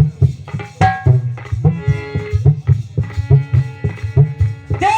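Devotional kirtan accompaniment with no singing: a hand drum playing a quick, steady rhythm of strong low strokes under a melody of held notes.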